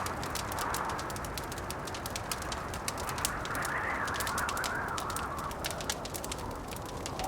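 Blizzard wind moaning, swelling and easing, over a log fire crackling with many small sharp pops.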